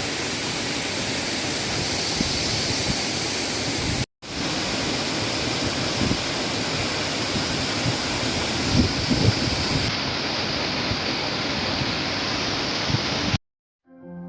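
A tall waterfall's steady rushing water, in edited clips with short silent breaks about four seconds in and near the end.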